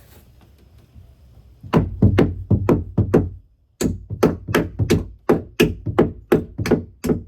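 A hammer driving nails into a wooden roost perch: two runs of sharp blows, about six and then about a dozen, at roughly three a second, with a short pause between them.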